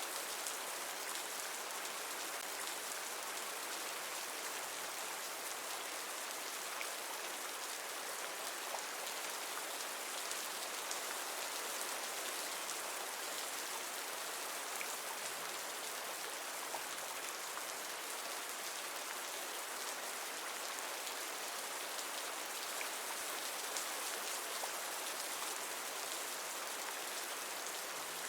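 Steady rain falling on a surface, an even hiss with small scattered drop ticks.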